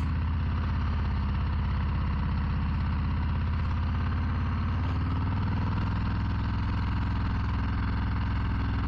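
Harley-Davidson Low Rider ST's Milwaukee-Eight 117 V-twin idling with a steady low engine note, which shifts slightly about halfway through.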